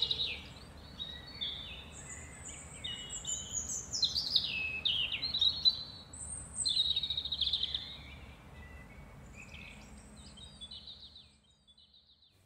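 Songbirds chirping and warbling, many short high calls overlapping, thinning out and fading away near the end.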